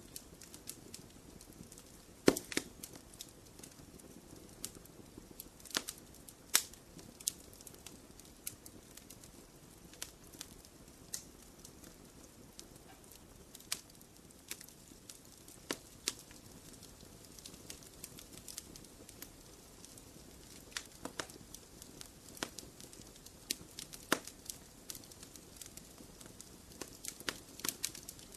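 Wood fire in a fireplace crackling, with irregular sharp pops over a soft steady hiss. A few louder pops stand out, the loudest about two seconds in.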